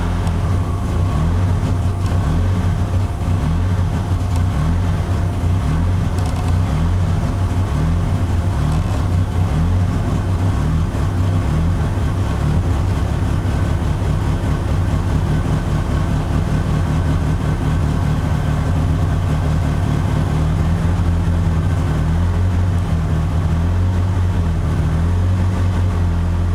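Nissan Silvia S14's SR20DET turbocharged four-cylinder engine idling steadily.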